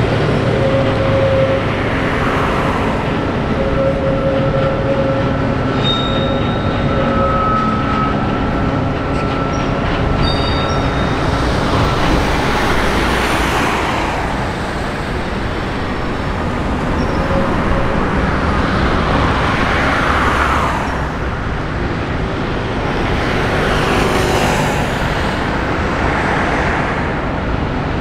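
Train on an industrial steelworks railway rolling past, with a steady rumble of wheels on rails. Thin squealing tones come and go, and the noise swells several times as cars go by.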